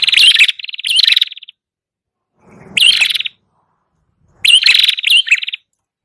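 Red-headed prenjak (prenjak kepala merah) singing from a luring recording: loud, rapid trills in four bursts of about half a second to a second each, with short gaps between.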